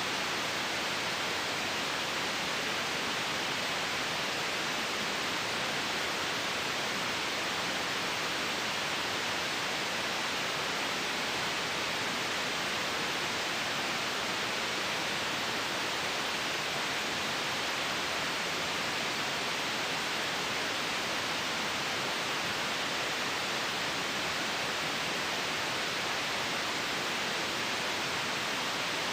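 Steady white-noise hiss for sleep, even and unchanging, brightest in the upper-middle range with little bass.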